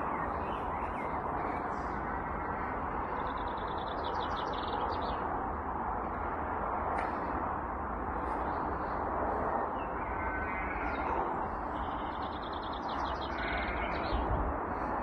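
Birds calling and chirping, with a quick trilling call twice, over a steady outdoor rush and low rumble.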